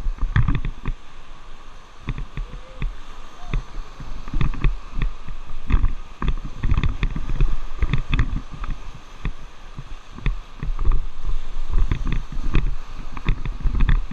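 Whitewater rushing and splashing against an inflatable raft as it runs a rapid, with irregular sharp splashes and heavy low buffeting of wind and water on the microphone.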